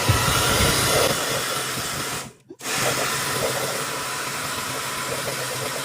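Handheld hair dryer blowing hot air, a steady hiss. It cuts out for a moment about two and a half seconds in, then carries on as before.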